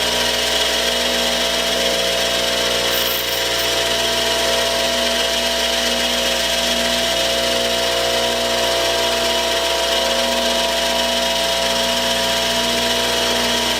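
Bench grinder running steadily, its wheel grinding the sharp edge off the cut end of a stainless steel bolt, with a constant motor hum under a hiss.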